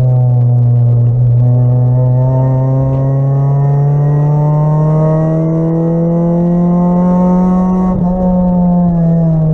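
Acura Integra race car's four-cylinder engine heard from inside the stripped cabin, pulling up slowly through the revs. There is a brief break in the note about eight seconds in, then the revs ease down.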